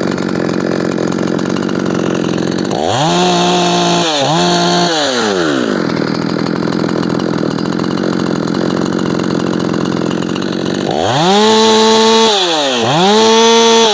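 Ported Efco 165 two-stroke chainsaw idling, then revved up twice in quick pairs of blips, each time climbing sharply to a high held note and dropping back to idle. It revs the highest it has been seen to.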